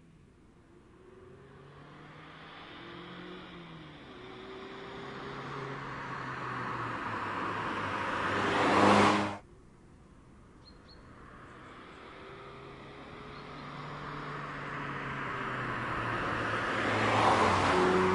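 2016 Mazda MX-5's four-cylinder engine accelerating through the gears as the car approaches, its pitch climbing and dropping back at each shift while it grows louder. The sound cuts off abruptly about nine seconds in, then a second approach builds up to its loudest near the end.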